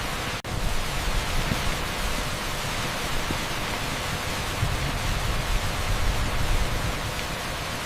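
Torrential rain on a street, mixed with pink noise: a dense, steady hiss with no individual drops standing out. It cuts out for a split second about half a second in.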